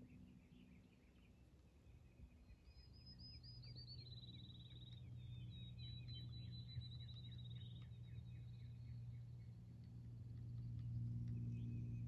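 A bird's fast, high trill of closely spaced notes, falling slightly in pitch, from about three seconds in to about eight seconds. Fainter short ticks and a low steady hum lie under it.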